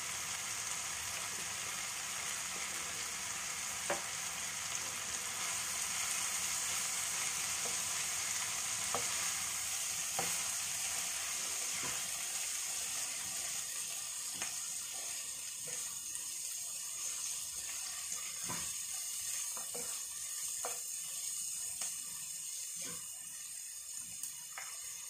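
Chopped onions, bell peppers and tomatoes sizzling in oil in a frying pan as a wooden spatula stirs them, with scattered light taps of the spatula against the pan. The sizzle weakens gradually over the second half.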